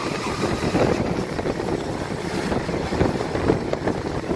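Moving passenger train heard from inside the carriage: a steady rumble of the running gear with irregular clatter of wheels on the rails, and wind blowing over the microphone at the open window.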